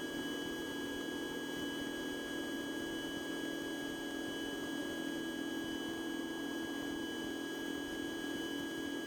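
Steady drone of a Cessna 150's Continental O-200 engine in cruise, heard muffled through the aircraft intercom, with a thin high whine over it.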